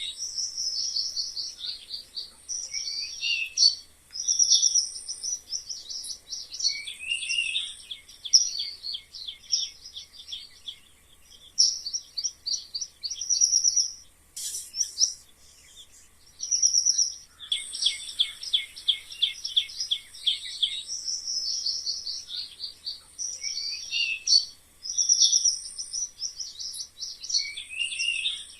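Mice squeaking: runs of rapid, high-pitched squeaks and chirps a second or two long, with a few calls sliding down in pitch, broken by short pauses.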